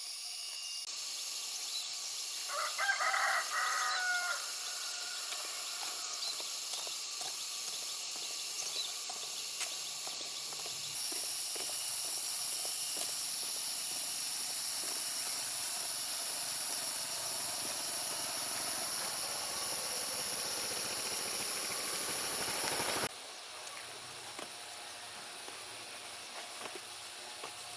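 A rooster crows once, about three seconds in, over a steady high-pitched hiss of outdoor ambience. The background changes abruptly about eleven and twenty-three seconds in.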